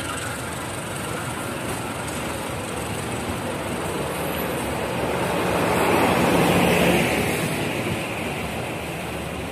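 Indonesian passenger train coaches rolling slowly past at close range, a steady rumble of wheels and running gear. Just past the middle it swells for about two seconds with a steady low hum as the diesel generator (power) car goes by.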